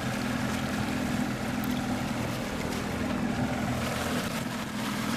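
A small fishing boat's motor running steadily, a constant low hum, with water and wind noise over it.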